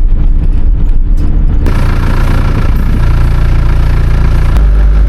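A vehicle engine running steadily with a low hum. About a second and a half in, a loud rushing noise joins it, and near the end the engine note changes.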